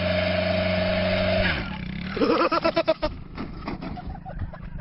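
Motorcycle engine held at steady revs, then dropping off about a second and a half in. After it comes a brief shout and a quick run of knocks or clatter.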